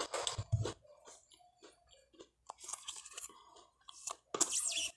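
Crunchy toasted bread being chewed close to the microphone, with small mouth clicks. Near the end comes a short, loud rasp of a knife scraping margarine out of a plastic tub.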